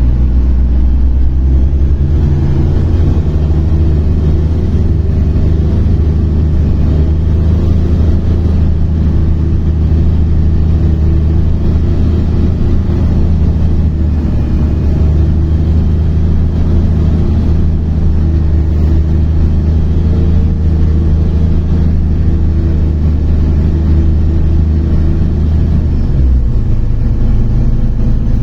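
Inside a MAZ-103 city bus under way: the diesel engine runs with a steady deep hum over road noise. The low engine note shifts near the end, as the engine speed changes.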